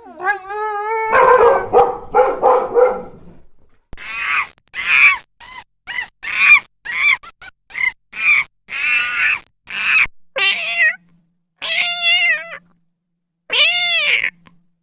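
Domestic animal calls: a quick series of cries, then a run of about fourteen short repeated calls, then three long rising-and-falling cat meows near the end.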